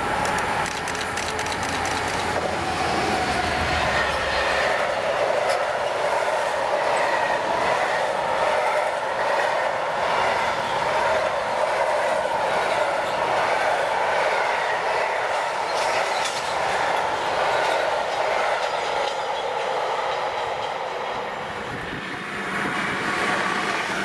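A train running past on the main line, with a continuous rumble of wheels on the rails that lasts the whole time. A low hum in the first few seconds fades out, and the noise dips briefly near the end before building again.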